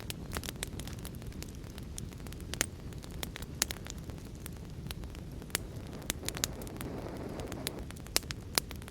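Wood fire crackling in a fireplace with irregular sharp pops, over a steady low rumble of storm and rain. About six seconds in, a softer swell of noise rises and fades.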